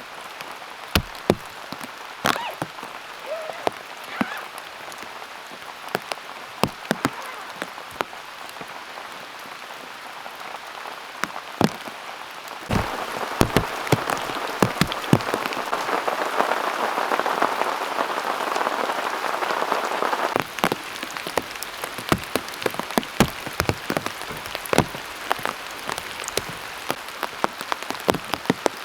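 Heavy autumn rain falling steadily, with many sharp single drops striking close by. The downpour grows louder for several seconds in the middle, then eases back suddenly.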